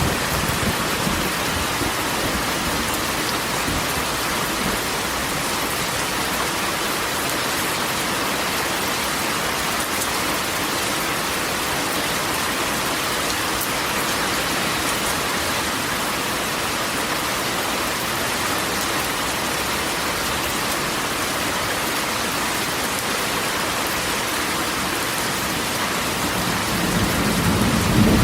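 Steady rain falling on a corrugated metal roof. A low rumble of thunder builds near the end.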